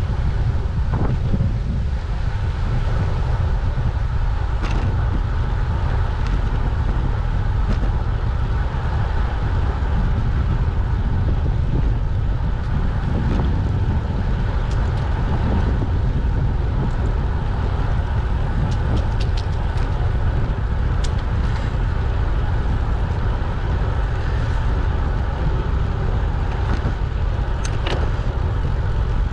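Steady low rumble of wind on the microphone and tyre noise from a moving bicycle, with a few faint clicks.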